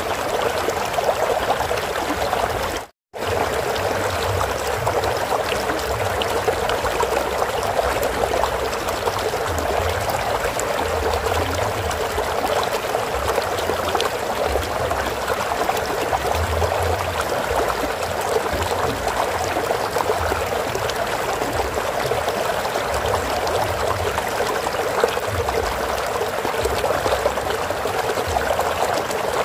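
Flowing stream water, a steady rushing trickle. It cuts out to silence for a moment about three seconds in.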